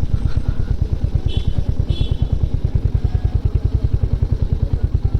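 Motorcycle engine idling, a steady, fast, even low pulse.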